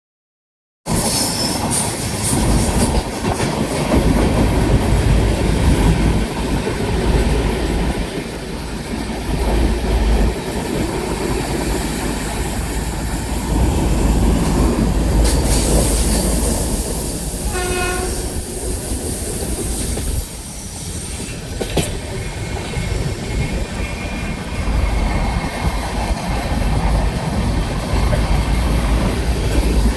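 A moving train's steady rumble and rattle of wheels on the track, starting about a second in. A short horn blast sounds about halfway through.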